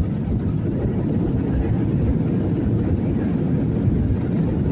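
Boeing 737 jet engines giving a steady low rumble as the airliner comes in to land.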